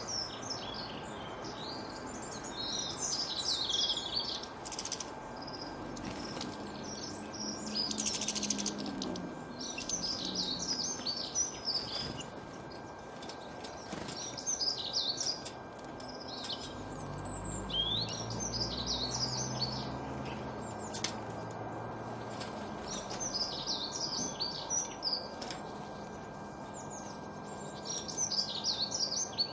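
A songbird singing short, high, twittering phrases over and over, one every two or three seconds, over a steady background hiss. A low rumble swells and fades under it about two-thirds of the way through.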